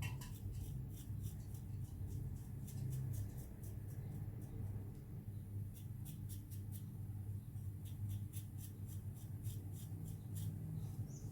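Safety razor (Gillette Black Beauty adjustable) scraping through lathered stubble in clusters of short strokes, with a crisp crackle of whiskers being cut. The lather is starting to dry.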